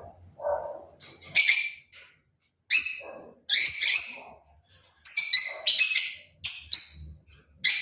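Plum-headed parakeet calling: a series of short, shrill, harsh calls, about a second or less apart.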